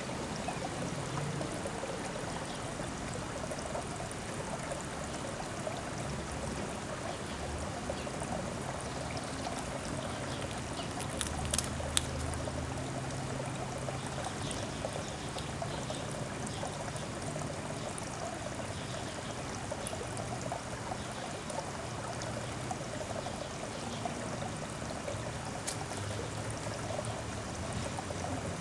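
Steady trickle of running water, with two sharp clicks close together about twelve seconds in.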